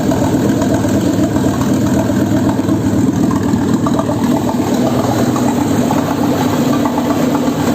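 Volvo B5204T9 2.0-litre turbocharged five-cylinder engine idling steadily on a test stand.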